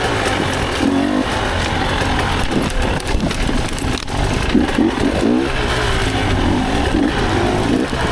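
Dirt bike engine revving in short throttle bursts, its pitch rising several times, over a steady rush of wind and trail noise.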